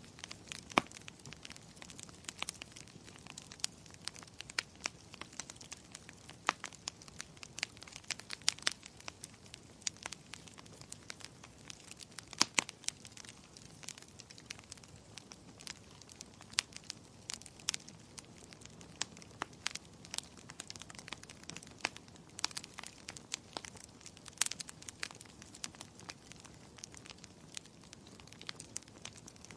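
Wood fire crackling in a fireplace: irregular sharp pops and snaps, several a second with a few louder ones, over a soft steady hiss.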